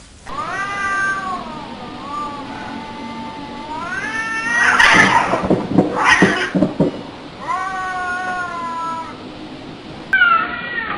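Cats yowling at each other in long, wavering drawn-out calls, with a loud scuffle of hissing and spitting about halfway through, then more yowling.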